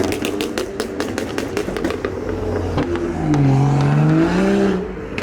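Modified cars pulling away: a rapid run of sharp crackling pops for the first two seconds, then an engine revving, its pitch dipping and rising again about three seconds in.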